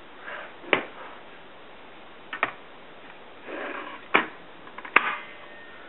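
A handful of sharp plastic clicks and knocks with soft rustling between them: a mostly plastic Double Eagle M37 spring airsoft gun with a metal stock being handled and its parts worked.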